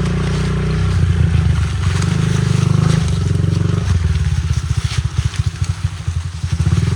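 Honda CRF50 pit bike's small four-stroke single-cylinder engine running under a rider. About four seconds in it drops to a slower, uneven putt of separate firing strokes, then picks up again near the end.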